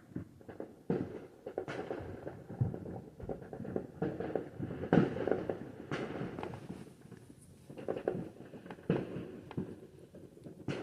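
Fireworks going off: a steady stream of irregular bangs and crackling pops, loudest about five seconds in.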